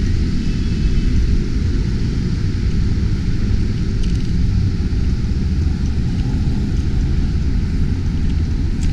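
Steady low rumbling noise, heaviest at the bottom, with a few faint short ticks on top.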